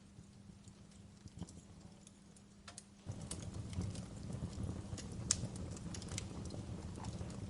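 Wood fire crackling in a fireplace, with scattered sharp pops and snaps. About three seconds in, the low rumble of the burning suddenly gets louder and stays up.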